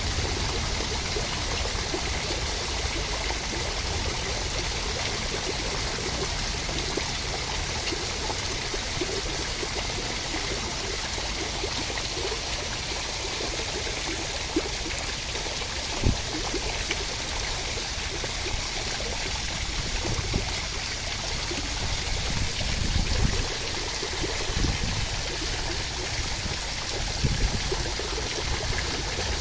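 Steady rushing water, an even unbroken wash, with a few soft low thumps in the second half.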